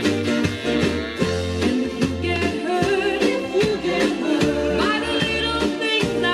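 A 1970s soul-disco single playing from a vinyl 45 record: a woman singing over a steady beat with bass and band.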